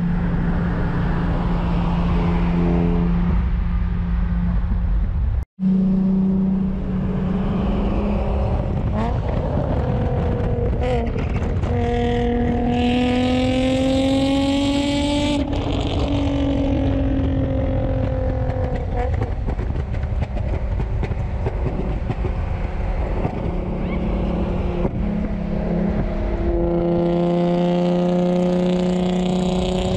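Sports car engines at highway speed, heard from inside a car: a steady drone with road noise, broken by a brief gap about five seconds in. The exhaust note climbs under acceleration about ten seconds in, drops off suddenly, and climbs again near the end.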